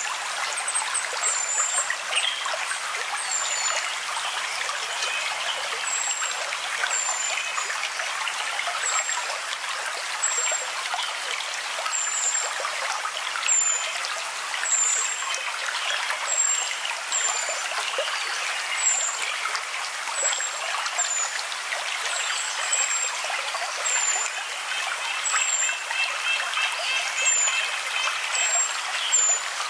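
Steady running water, with short high-pitched chirps repeating about once a second over it.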